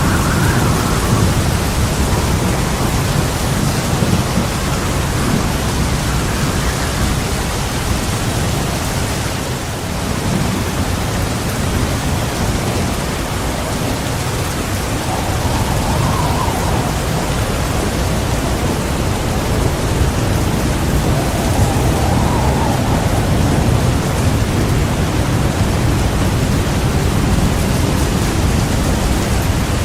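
Heavy rain falling steadily, with low rolling thunder rumbling underneath and no sharp cracks.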